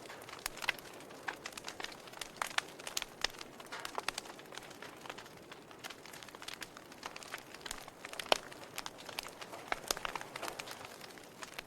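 Wood fire crackling: irregular snaps and pops over a soft steady hiss, with one sharper pop about eight seconds in.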